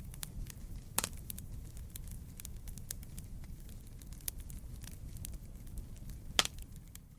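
Wood fire crackling, with irregular sharp pops and snaps over a low rumble of burning. The loudest pops come about a second in and near the end.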